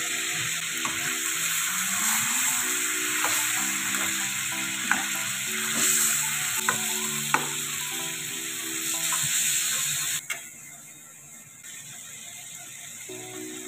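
Chicken pieces and tomatoes frying in oil in a karahi: a steady sizzle, with a metal utensil clicking against the pan a few times. The sizzle drops off suddenly about ten seconds in, leaving a quieter bubbling.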